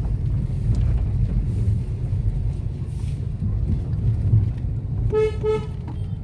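A road vehicle riding with a steady low rumble, and two short horn toots in quick succession about five seconds in.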